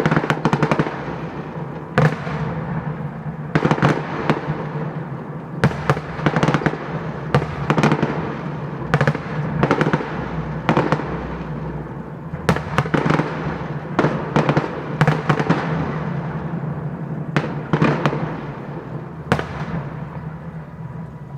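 Fireworks display: aerial shells bursting in a steady, irregular barrage of sharp bangs, often in quick pairs, each trailing off, over a steady low hum.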